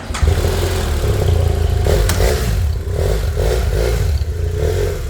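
Motorcycle engine starting suddenly and running, with the throttle blipped several times.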